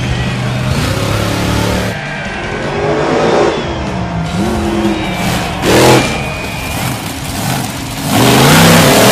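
Monster truck engines revving, their pitch rising and falling, with a short sharp rev about six seconds in and a loud sustained rev near the end.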